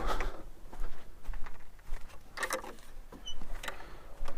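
A few scattered knocks and scuffs, the strongest about two and a half seconds in.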